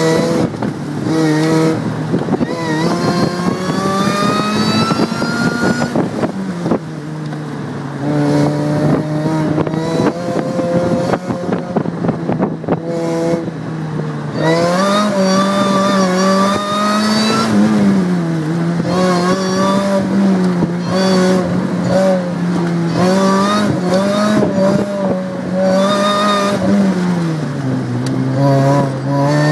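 Mazda Miata four-cylinder engine heard from the open cockpit, revving up and dropping back again and again as the car accelerates and lifts. The pitch falls sharply about six seconds in.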